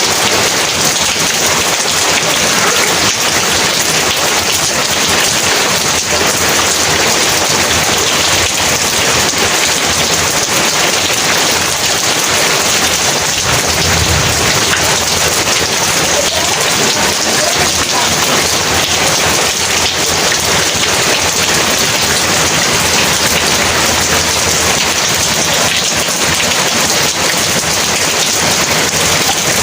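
Heavy rain falling steadily, a dense continuous hiss of downpour. About halfway through comes a brief low rumble of thunder.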